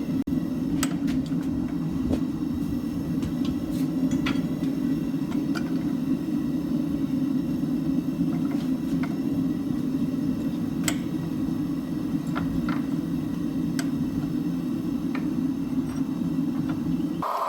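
Steady roar of a blacksmith's forge running, with scattered faint ticks and clicks over it. It cuts off abruptly just before the end.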